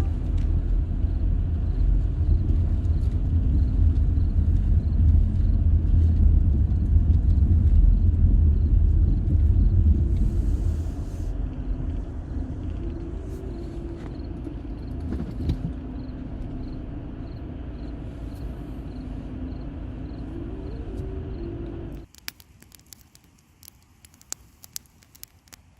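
Road noise inside a moving car: a steady low rumble of the car driving. It cuts off suddenly near the end, leaving only faint clicks.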